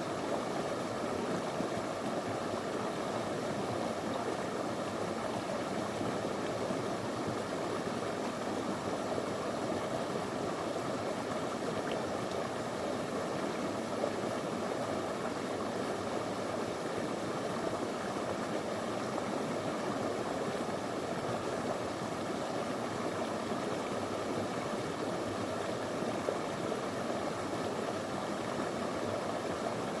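Small river flowing steadily over stones: an even, unbroken rush of water.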